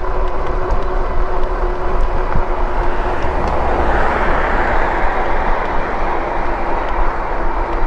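Riding an e-bike: a steady rush of wind and tyre noise, with a thin steady hum running through it. The rush grows a little brighter about halfway through.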